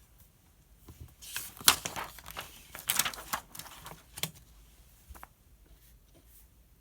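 Paper rustling as a page of a study book is turned: about three seconds of crisp rustling with several sharp snaps, then a faint tick.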